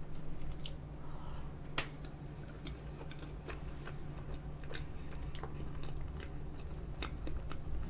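Close-miked wet chewing of a mouthful of soft tiramisu, with scattered small mouth clicks.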